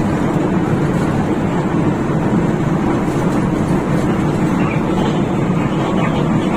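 Steady drone of a Hino RK8 intercity bus under way, heard from inside the passenger cabin: the rear-mounted diesel engine and road noise.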